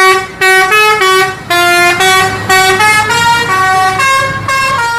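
A synthesised tune played as a run of short, buzzy, horn-like notes stepping up and down in pitch, a few notes a second.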